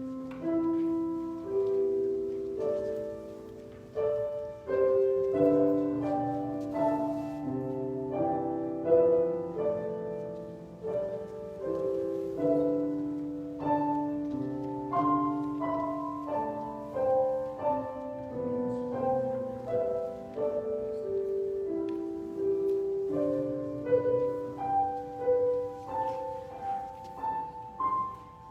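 Solo piano playing slow, gentle music: held chords under a moving melody, each note struck and then fading away.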